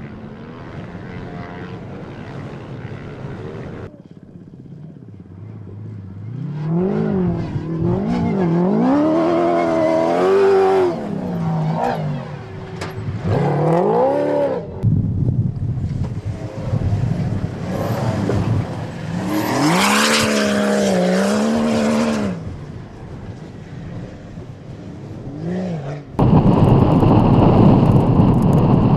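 Toyota Hilux rally car's engine revving up and down over and over as it climbs and drops across sand dunes, its pitch rising and falling with the throttle. Near the end the sound cuts suddenly to loud, steady wind noise on the microphone.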